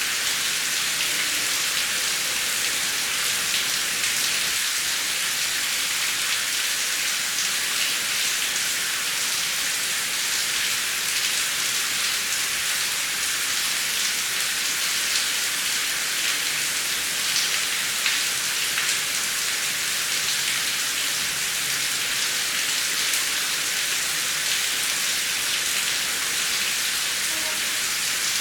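Steady heavy rain, an even hiss of falling drops with small patters of individual drops hitting a surface.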